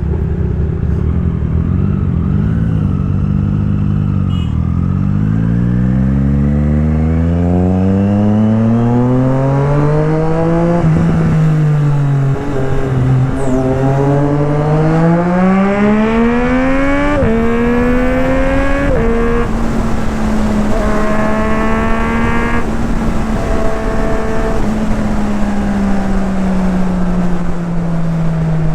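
Motorcycle engine under hard acceleration, revving up through the gears with quick upshifts about 11, 17 and 19 seconds in, then cruising at a steady speed and easing off slightly near the end. Wind rushes over the microphone at the start.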